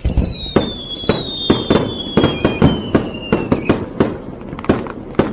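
Fireworks display going off in rapid, irregular bangs, several a second, with a high whistle that slowly falls in pitch over the first three and a half seconds.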